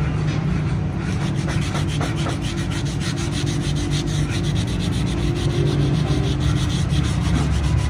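A rusty knife blade being sanded by hand: rapid, even back-and-forth rubbing strokes, several a second, scraping rust off the metal.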